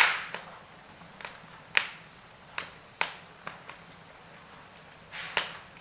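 Wood fire crackling in a fireplace: irregular sharp pops and snaps, about a dozen, the loudest right at the start, over a faint steady hiss.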